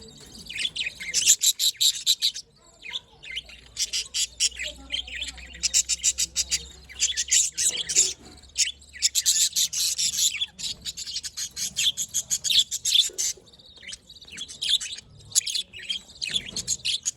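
Budgerigars chirping and warbling in rapid, busy runs of high chirps, with a few short pauses.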